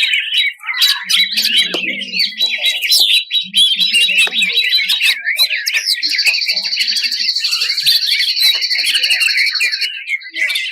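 Green leafbird (cucak ijo) singing hard and fast: dense chattering phrases full of sharp, rapid notes. About six seconds in, this changes to a fast buzzing trill held for about four seconds.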